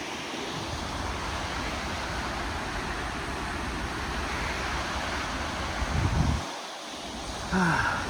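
Steady rushing roar of a waterfall, with wind buffeting the microphone in low gusts.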